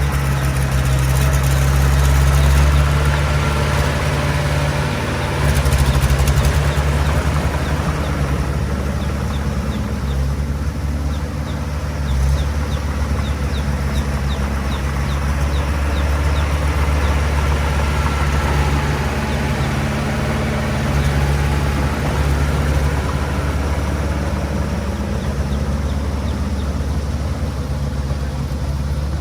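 Diesel engine of a small Komatsu D20 bulldozer running steadily while it works. The engine swells in level a couple of times in the first seven seconds, and faint regular ticking runs through the middle.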